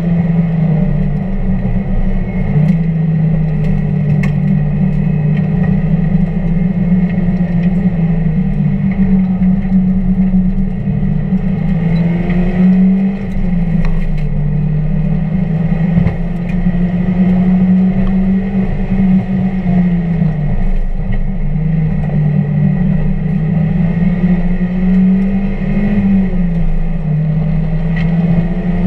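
1999 Mazda Miata's 1.8-litre four-cylinder engine being driven hard on a race track. The revs climb and drop several times as the car is worked through the session, with scattered sharp clicks and rattles over the engine note.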